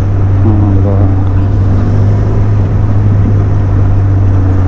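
Motorcycle engine running at a steady cruise, a loud, even drone, with wind rushing over the rider-mounted microphone.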